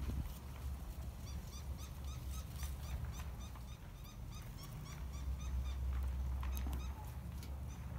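A bird calling in a quick series of short, repeated notes, about four a second, for a few seconds, over wind rumbling on the microphone.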